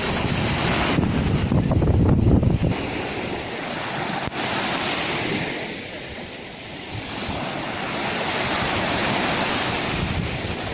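Sea waves washing and breaking as a steady surf that swells and eases, softening a little past the middle. Wind buffets the microphone with a low rumble in the first few seconds.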